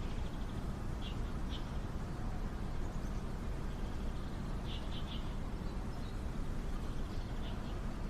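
A few short bird chirps, twice about a second in and a quick run of three near five seconds, over a steady low rumble.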